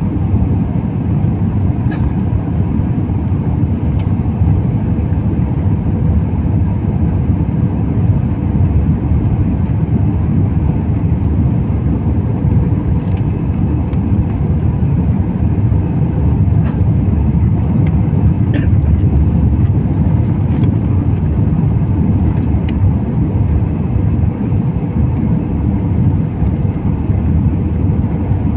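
Steady low roar of an airliner's cabin noise in flight, with a faint steady hum and a few light ticks.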